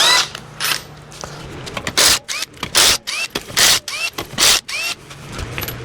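Power impact wrench taking the lug nuts off a car's front wheel, run in a series of short trigger bursts about half a second apart, each with a brief rising motor whine.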